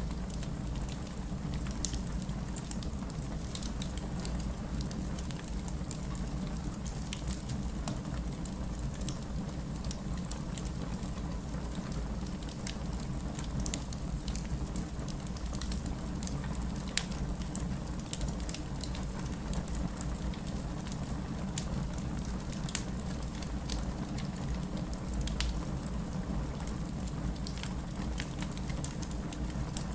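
Wood fire burning with a steady low rumble and frequent sharp crackles and pops from the burning logs.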